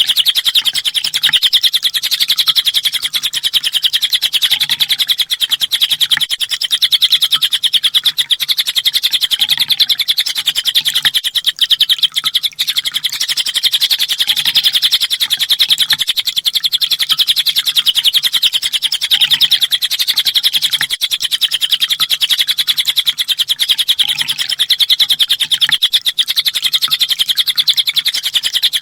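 Kolibri ninja sunbird singing a continuous, rapid high-pitched trill of fast-fired 'tembakan' notes, unbroken and even in loudness throughout.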